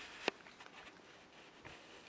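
Faint outdoor hiss with one sharp click about a quarter of a second in and a few weaker ticks after it.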